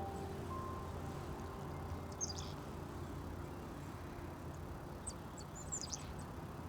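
Small birds' short, very high, thin chirps, a few notes about two seconds in and a cluster between five and six seconds, over a steady low rumble. Background music fades out in the first second.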